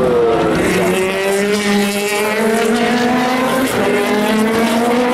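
Racing car engines at speed on the circuit, the pitch dropping in the first second as a car goes by, then holding steady with several engines overlapping.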